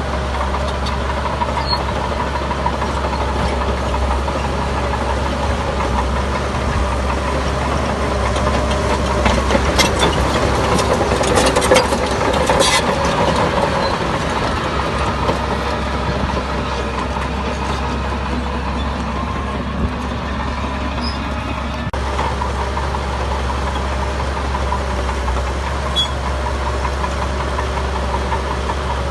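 Heavy diesel earthmoving machinery running steadily, with a cluster of sharp knocks and clanks near the middle.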